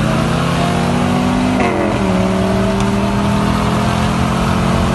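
Car engine pulling hard under acceleration, its pitch stepping with a gear change about one and a half seconds in.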